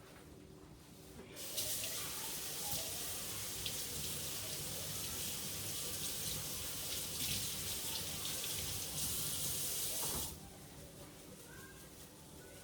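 Kitchen faucet running as cilantro is rinsed under it: a steady rush of water that starts about a second in and is shut off abruptly about ten seconds in.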